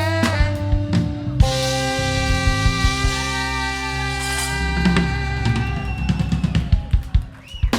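Band ending a song: a chord held while the drum kit plays fills with snare and bass drum, the hits growing busier toward a final strike near the end.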